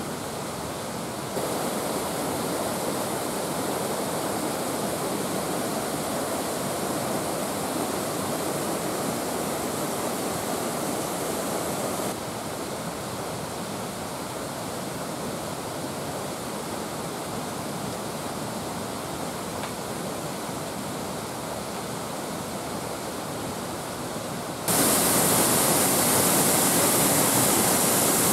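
Waterfall's falling water rushing steadily. The level jumps louder about a second in, drops about twelve seconds in, and jumps much louder near the end.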